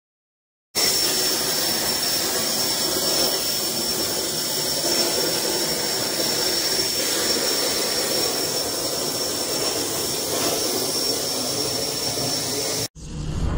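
Hypertherm ProLine 2150 CNC plasma torch cutting: a loud, steady hiss with a thin high whistle that starts suddenly about a second in and stops abruptly near the end.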